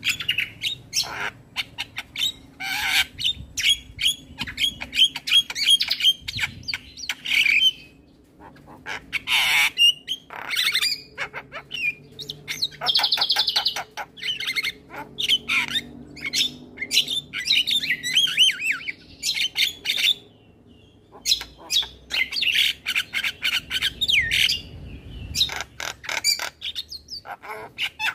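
Male Javan myna singing its full, varied song: rapid chattering and clicking runs mixed with gliding whistles and harsh squawks, broken by two short pauses.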